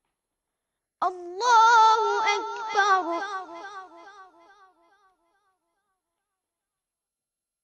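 A child's voice in melodic Quranic recitation holds one long, ornamented note whose pitch wavers in small steps. It starts suddenly about a second in and fades away by about five seconds, followed by silence.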